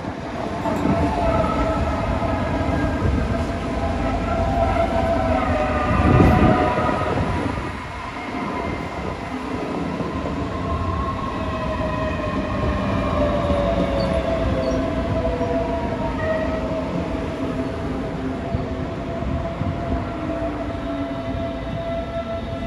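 A train running past, a rumble with several whining tones that slowly shift in pitch, loudest about six seconds in.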